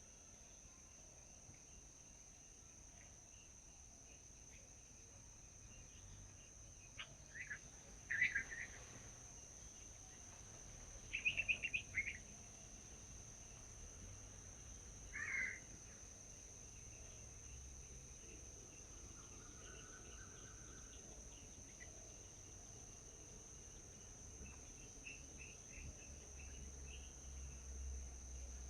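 Birds giving short chirps and calls in a few separate bursts, the loudest about a third of the way in, over a steady high-pitched insect drone like crickets.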